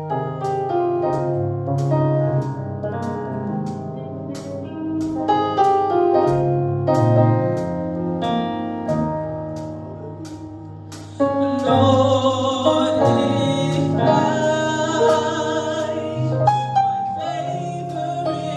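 Gospel praise band music: keyboard chords with a steady cymbal tick, then about eleven seconds in the band comes in louder and voices start singing.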